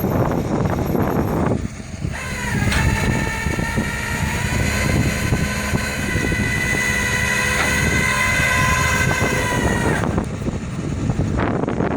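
Flatbed tow truck's winch whining as it runs, over the truck's engine. The whine comes in with a short rise in pitch about two seconds in, holds steady, and cuts off about two seconds before the end.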